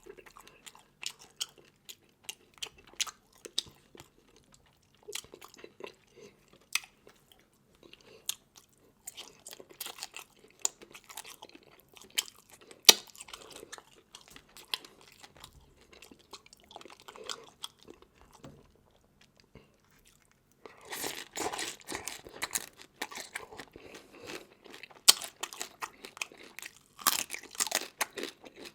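A person chewing and crunching seafood close to the microphone, with many sharp cracks and smacks. After a brief lull the crunching comes thicker and louder through the last third.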